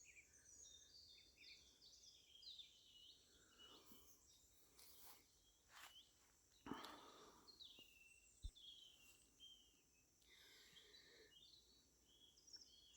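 Faint evening birdsong: several birds keep up short chirping and whistling phrases. A couple of soft knocks come about halfway through.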